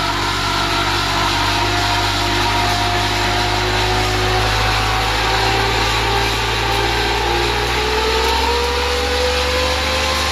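Truck-mounted hydraulic snowblower running, driven by its power pack's Ford 2.3-litre inline-four engine: a steady engine sound with a whine that slowly shifts in pitch. The low hum changes near the end.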